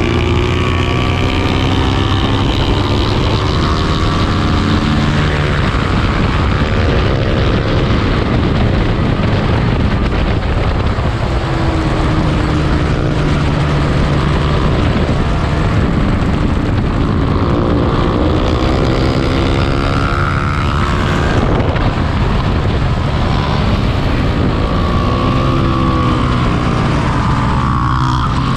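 Lightweight 300-class race motorcycle engine running hard, its pitch repeatedly climbing and dropping as the bike accelerates, shifts and brakes.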